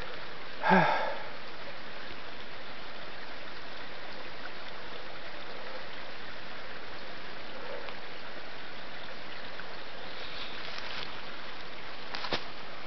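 Small babbling brook: the steady rushing and burbling of shallow water over stones. About a second in there is one short pitched sound, and near the end a single sharp click.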